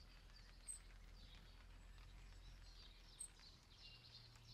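Near silence with faint bird calls: a short high chirp about a second in and again about two and a half seconds later, with softer twittering between.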